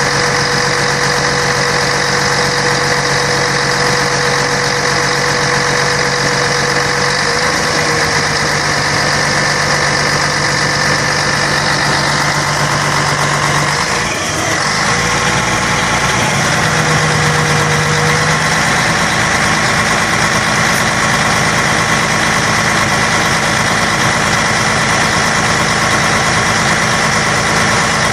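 Scania K113 bus's 11-litre six-cylinder diesel engine running steadily at a constant speed, like an idle. There is a brief dip in level about halfway through.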